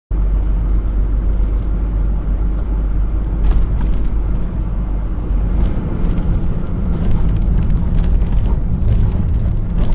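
Steady low rumble of a road vehicle driving, engine and road noise, with scattered light clicks and rattles.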